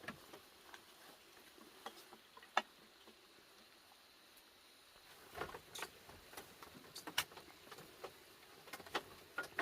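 Faint, scattered light clicks and taps of dishes and utensils being handled, sparse at first and coming more often after about five seconds.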